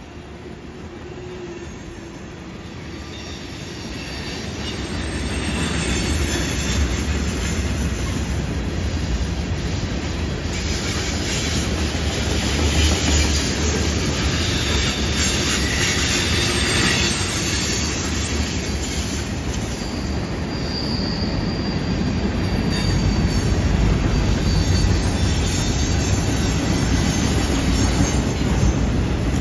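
Freight cars (tank cars, then autorack cars) rolling past on a curve with a steady rumble and rattle of wheels on rail, growing louder over the first several seconds. Faint thin wheel squeal rises now and then as the wheels take the curve.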